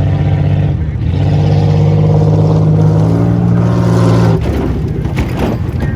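Car engine revving hard under load, then letting off about four seconds in, followed by a few sharp knocks.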